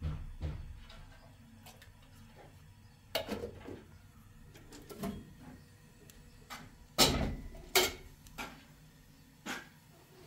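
A few scattered knocks and bangs, like objects being set down or a door or drawer shutting, the loudest two close together about seven seconds in.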